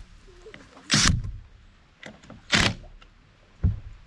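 Three heavy knocks of a hammer striking timber framing, about a second in, just past the middle and near the end, each dying away quickly.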